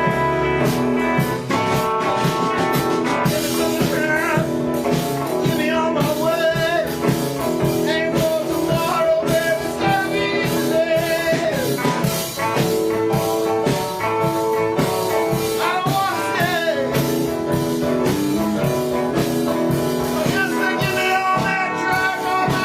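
Live blues band playing: electric guitar over bass and a steady drum kit beat, with bending, wavering lead lines, and a voice or harmonica in places.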